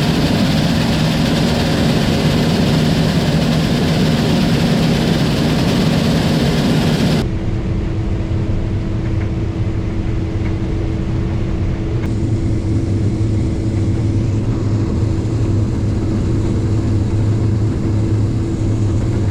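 Combine harvester running steadily while harvesting corn: a loud engine and machinery drone. About seven seconds in it changes abruptly to a duller, lower drone with a steady hum.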